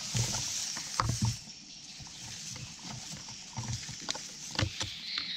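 Rustling leaves with a few sharp snaps and thumps as lemongrass stalks are pulled and broken off by hand.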